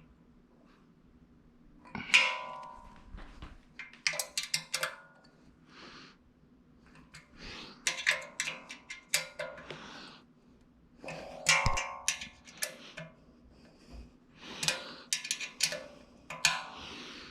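Metal brackets and parts of a plotter stand being handled and fitted: bursts of clanks, clicks and rattles, with two louder ringing metal clangs, about two seconds in and again past eleven seconds, over a faint steady hum.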